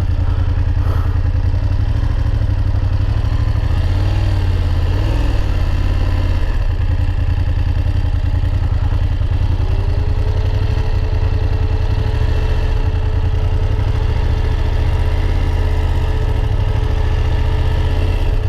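BMW F850GS motorcycle's parallel-twin engine running while riding at town speed: a steady low drone that swells and eases a little in pitch a few times.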